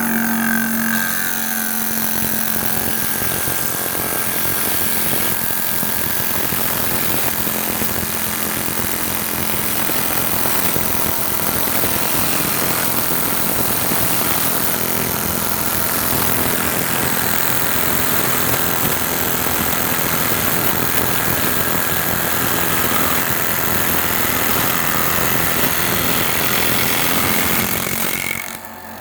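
Machine tool running steadily while machining, a dense harsh noise that dips briefly near the end.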